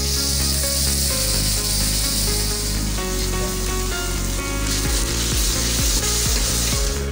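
Butter and chopped aromatics sizzling in a hot wok while a metal spatula stirs and scrapes them, the scraping strokes coming in the second half. Background music plays underneath.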